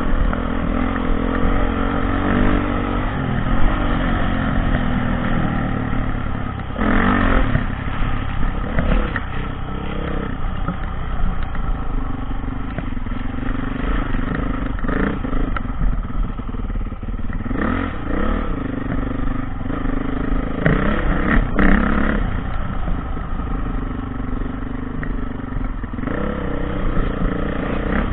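Dirt bike engine running as the bike is ridden off-road, its pitch rising and falling with the throttle, with a few short louder surges of revs.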